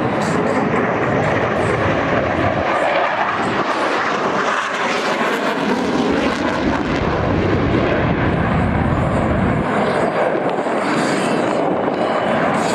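Blue Angels jet aircraft flying past with loud, continuous jet engine noise. The deep rumble swells in the middle, from about five to nine seconds in.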